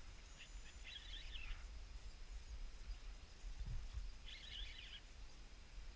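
Faint outdoor ambience with a low steady rumble, and a bird's short chattering call twice, about a second in and again about four and a half seconds in.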